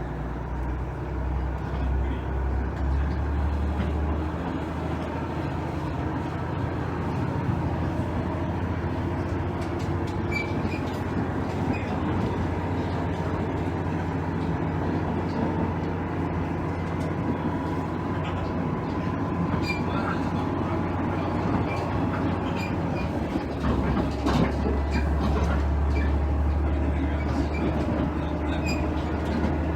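Cab-interior running sound of a KiHa 110 series diesel railcar: the underfloor diesel engine drones strongly for the first few seconds, eases off, then comes back strongly near the end. Steady wheel-and-rail running noise with scattered clicks and clickety-clack goes on beneath it.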